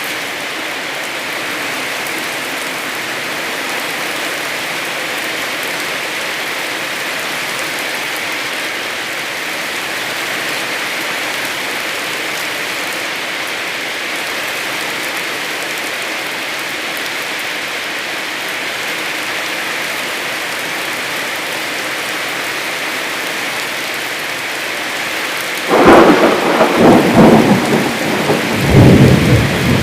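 Heavy rain falling steadily. Near the end a loud, sudden rumble of thunder breaks in and rolls on in uneven surges.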